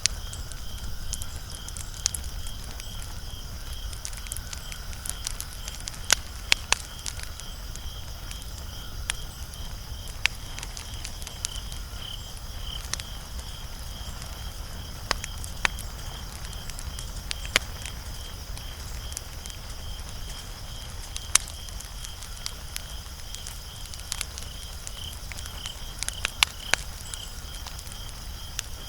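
Wood fire crackling: irregular sharp pops and snaps, some close together, over a low steady rumble. A steady, high pulsing sound runs underneath.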